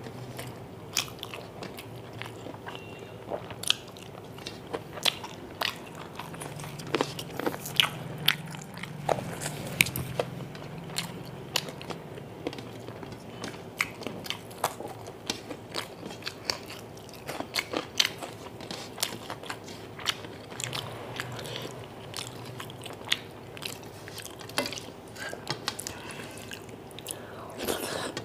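A person chewing and mouth-smacking mouthfuls of rice and chicken curry eaten by hand, with fingers mixing rice on a steel plate: many irregular sharp clicks and smacks.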